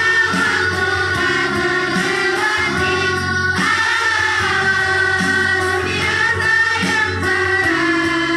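A sixth-grade school choir of children singing with instrumental accompaniment, the voices breaking off briefly about three and a half seconds in before the next phrase.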